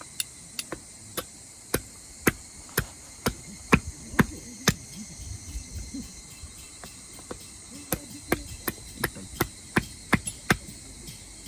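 Repeated sharp striking knocks, about two a second, in two runs with a pause in the middle, over a steady chorus of night insects.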